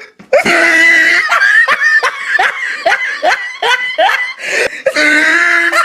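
A person laughing hard: a long high cry, then a run of rhythmic bursts of laughter, about two or three a second, and another drawn-out cry near the end.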